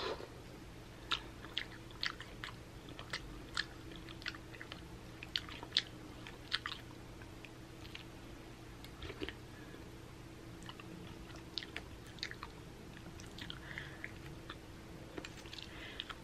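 A person quietly chewing a mouthful of fruit in coconut water, with a run of sharp, crisp clicks in the first seven seconds or so, then sparser, softer chewing.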